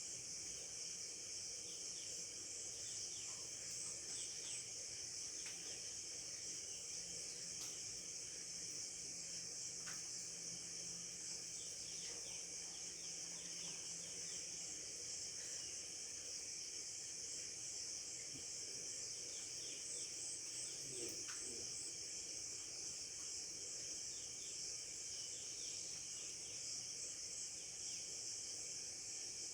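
Rural morning ambience: a steady, high-pitched insect drone, with faint bird chirps scattered throughout.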